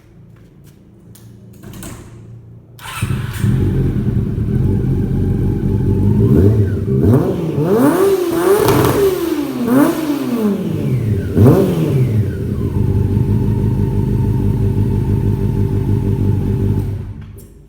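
Honda CB400 motorcycle engine through a Yoshimura aftermarket exhaust, catching about three seconds in and idling. Between about six and twelve seconds it is blipped up and down several times, then it drops back to a steady idle and cuts off near the end.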